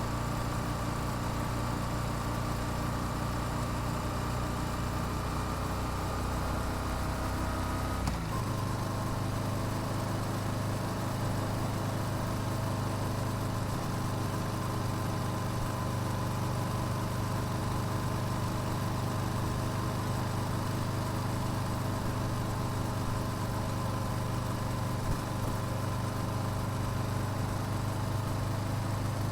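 Yamaha YZF-R7's 689 cc parallel-twin engine through its stock exhaust, running steadily under way, heard from on the bike over wind noise. The engine note climbs slowly, drops abruptly about eight seconds in as with an upshift, then holds steady.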